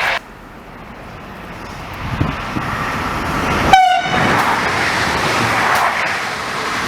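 French train approaching with a growing rumble, sounding one short horn blast a little under four seconds in, then passing loudly with steady wheel and rail noise.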